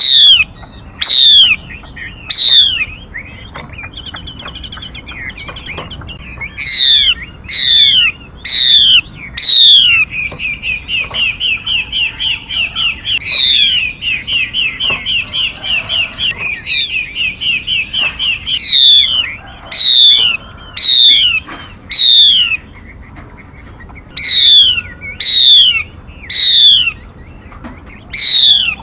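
Recorded song of a female 'mi' songbird played as a trapping lure. It is a string of loud, sharp whistles, each sweeping steeply downward, delivered in bunches of two to four. Partway through comes a fast, even run of short repeated notes lasting several seconds.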